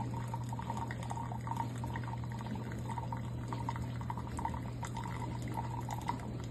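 Single-serve coffee maker brewing: a steady low hum with coffee pouring and gurgling into the cup in irregular crackles.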